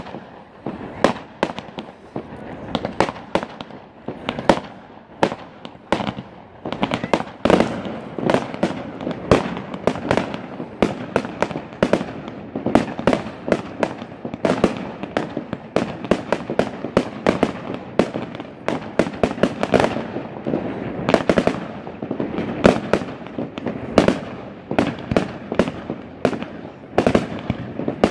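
Fireworks display: aerial shells bursting in quick succession, a dense run of sharp bangs several times a second with no pause.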